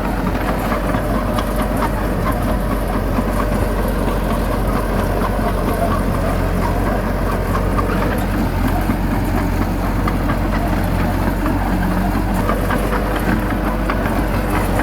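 Heavy diesel engine of earthmoving machinery running steadily at a constant pace, with a light irregular clatter over it.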